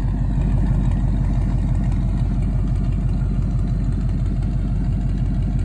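Carbureted Ford 302 V8 with a 3½-inch exhaust idling steadily, warming up after a cold start. It is a deep, evenly pulsing exhaust rumble.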